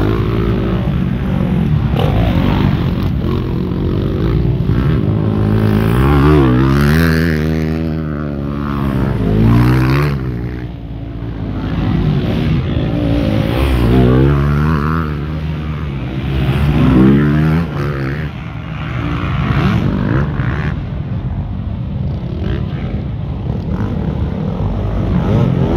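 Motocross motorcycle engines running, with one revved up and down repeatedly in two spells, from about six seconds in and again from about fourteen seconds in.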